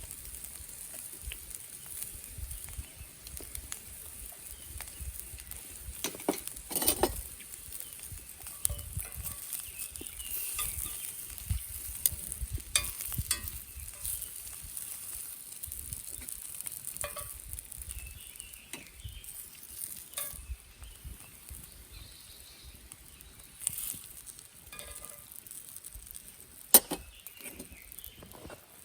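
Meat sizzling on a Nanbu cast-iron grill pan over a campfire: a steady high frying hiss, with sharp clicks and pops now and then, the loudest about seven seconds in and near the end.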